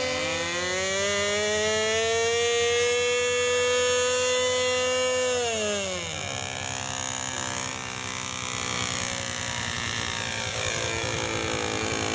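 Radio-controlled model aircraft motor whining high overhead, its pitch climbing slowly. About six seconds in the pitch drops steeply as the motor is throttled back, and a fainter, lower whine carries on.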